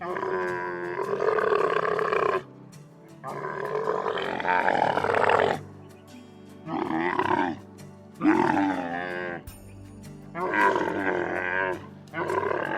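A large animal calling loudly six times, with two long drawn-out calls followed by four shorter ones, over a steady background music bed.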